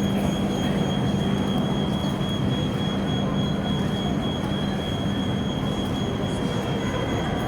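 Train-lifting machinery running with a steady mechanical noise and a thin, steady high whine; a low hum fades out about three and a half seconds in.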